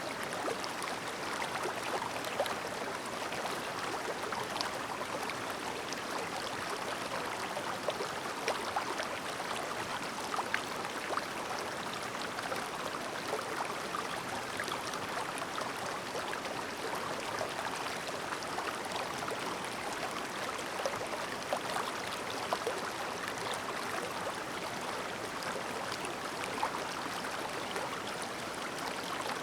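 Clear river stream babbling steadily, an unbroken rush of running water dotted with small splashes and gurgles.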